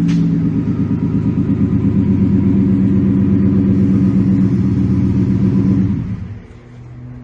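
2018 Ford F150's 5.0 V8 running through a cat-back dual exhaust with a Flowmaster Super 44 muffler and the resonator removed. It is held at raised revs with a steady pulsing rumble, then falls off about six seconds in to a quieter, lower run.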